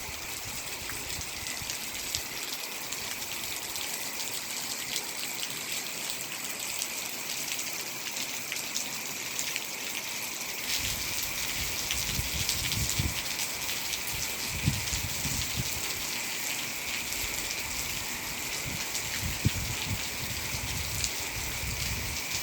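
Heavy rain falling steadily: a dense, even hiss dotted with many separate drop ticks. From about ten seconds in, irregular low rumbles come and go beneath it.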